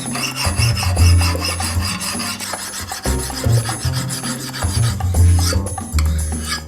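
Hand file rasping in repeated strokes, over background music with a low bass line.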